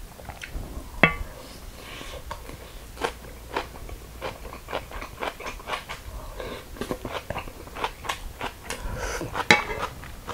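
Close-miked chewing and crunching of a mouthful of raw young radish greens (yeolmu) bibimbap, the stems still crisp and unwilted. About a second in a utensil strikes the stainless steel bowl with one sharp ringing clink.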